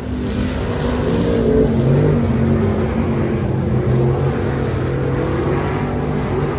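Stock car V8 engine running, its note stepping up about a second and a half in and then holding steady.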